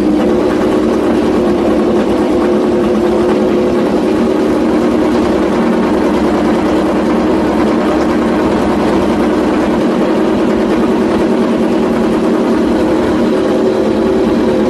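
Honda RC213V MotoGP bike's 1000cc V4 engine running steadily at a constant engine speed, its pitch holding level with no revving up or down.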